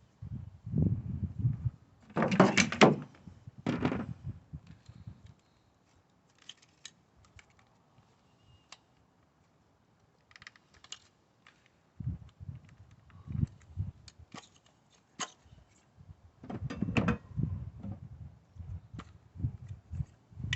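Hand tools and engine parts being handled: irregular clicks, knocks and clunks with low rumbling handling noise. A quieter stretch of a few seconds comes in the middle.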